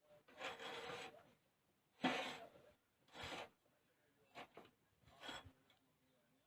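A handful of short, separate rustling or scuffing noises, each lasting under a second, with short gaps between them.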